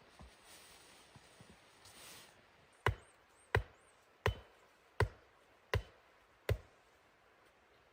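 Wood being chopped: six even strokes about 0.7 seconds apart, starting about three seconds in.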